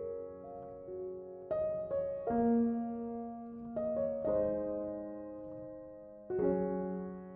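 Soft background piano music: slow chords struck every second or two, each left to ring and fade.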